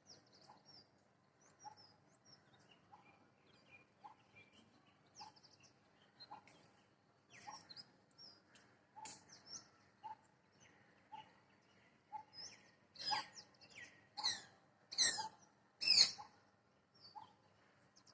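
Parrot calling from a tree: four loud, harsh screeching calls about a second apart in the second half, over softer chirps and a short note repeated every second or so from other birds.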